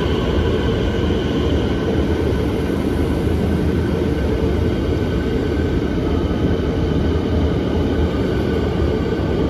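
Melbourne Metro Siemens electric multiple-unit train pulling into the platform, a steady loud rumble of wheels and motors with a faint whine that sinks slightly in pitch as it slows.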